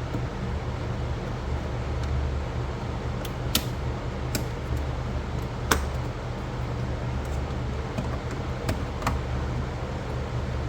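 Pressure-side pool cleaner running in the pool: a steady low hum with water noise, and several sharp clicks scattered through it.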